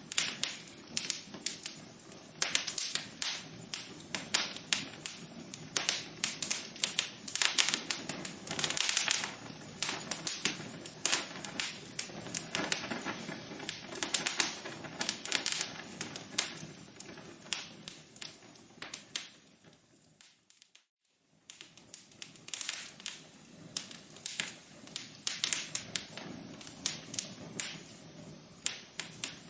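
Wood fire in a fireplace crackling and popping, with many sharp irregular crackles over a steady low hiss. About two-thirds of the way through it fades to near silence for a moment, then the crackling resumes.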